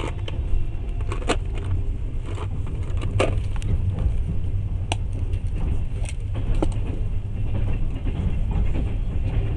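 Passenger train running at speed, heard from inside the carriage: a steady low rumble of wheels on the rails, with a few sharp clicks and knocks scattered through it.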